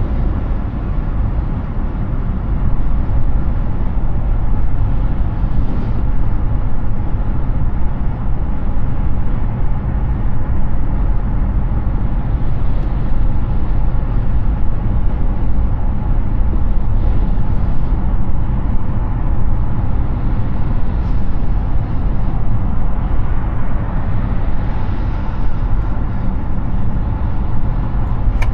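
Steady road noise of a Hyundai Ioniq 6 electric car at highway speed: tyres on the pavement and rushing air, deepest in the low end, with no engine sound.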